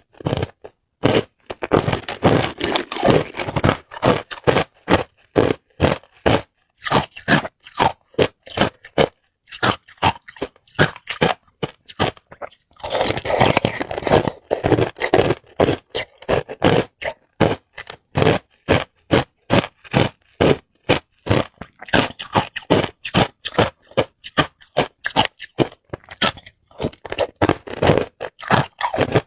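Hard ice cubes being bitten and chewed close to the microphone: a quick, irregular run of sharp crunches and cracks, several a second, thickest near the start and about halfway through.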